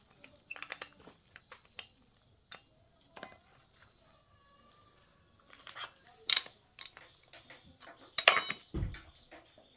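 Scattered metallic clinks and knocks of hand tools and small engine parts being handled. A louder clatter ending in a dull thump comes about eight seconds in.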